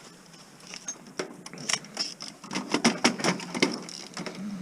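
Irregular clicks, taps and light knocks of metal and plastic parts being handled on an opened DVD player, with its heavy transformer inside, being scrapped.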